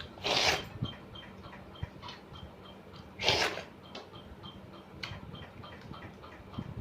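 A person eating makes two short, loud breathy mouth noises, one about half a second in and one about three seconds in. Faint, regular ticking runs about two or three times a second underneath.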